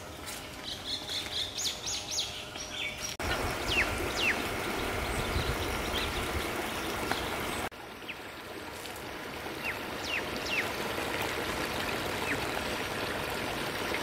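Songbirds chirping, with short falling whistled calls repeated over and over, over a steady outdoor hiss. The background changes abruptly twice.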